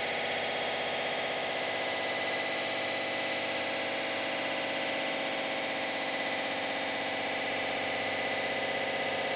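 Harsh noise / power electronics: a steady wall of heavily distorted electronic noise with many layered droning tones, holding one level throughout with no beat.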